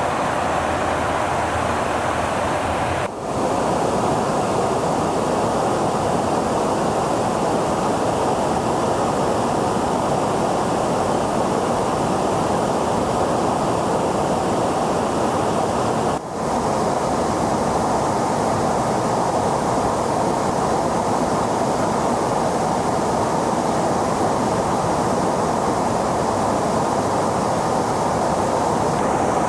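Jet aircraft engine noise: a steady, even rush with no distinct tone, briefly dropping out twice, about 3 and 16 seconds in.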